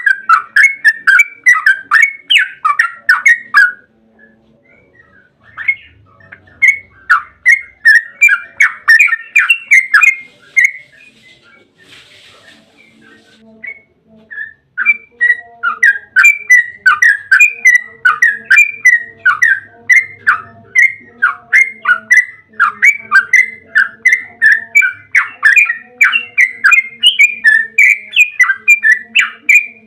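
Yellow-vented bulbul (trucukan) singing its long, fast chattering 'ropel' song: rapid strings of loud, bubbly notes, broken by a short pause about four seconds in and a longer one near the middle, then a long unbroken run.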